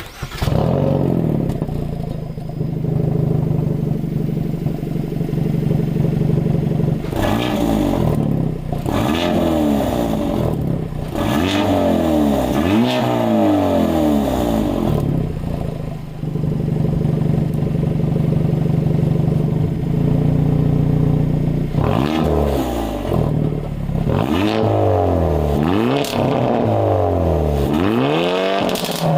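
Hyundai Avante N's turbocharged 2.0-litre four-cylinder through a mid-pipe straight-pipe exhaust, idling steadily, then blipped through a series of quick revs that rise and fall back, in two groups with idling between them.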